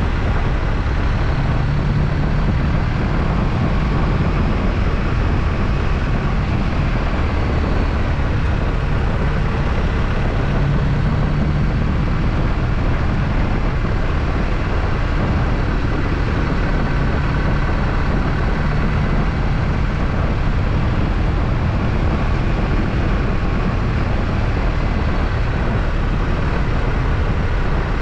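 BMW R1250RT motorcycle on the move at a steady speed: the boxer-twin engine's drone under a constant rush of wind noise.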